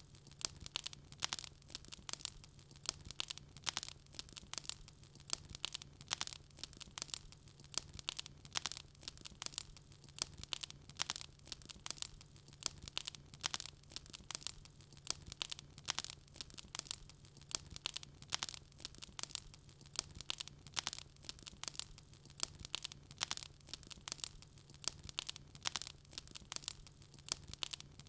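Wood fire crackling in a fireplace: a dense, irregular run of sharp pops and snaps from the burning logs, over a faint steady low hum.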